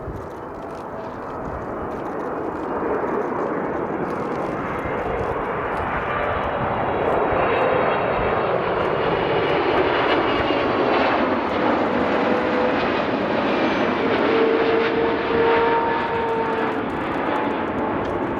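Boeing 777-300 jet engines on final approach, growing steadily louder as the airliner nears and passes, with the engine tones falling slowly in pitch.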